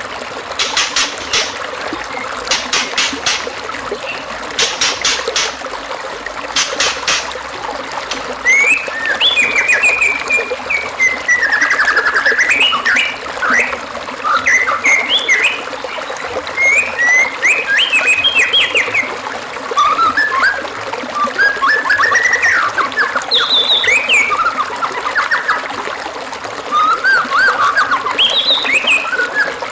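Recorded songbird song of the kind played to train white-rumped shamas. It opens with short buzzy rattles repeated about every two seconds, then turns into a fast, varied run of whistles, trills and chattering phrases, over a steady trickle of water.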